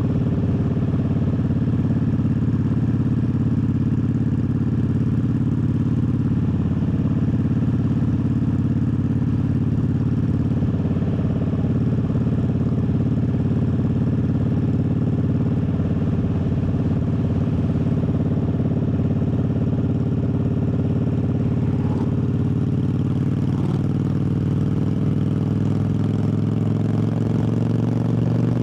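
Triumph Bobber's 1200 cc parallel-twin engine running steadily while riding, heard from the rider's seat, its pitch rising slightly over the last few seconds as it picks up speed.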